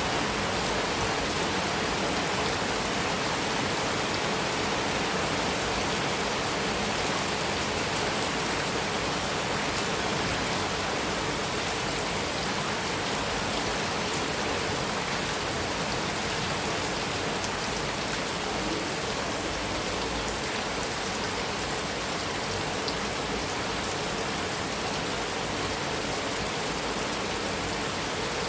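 Heavy rain falling steadily on a metal roof, an even, unbroken patter with no thunder.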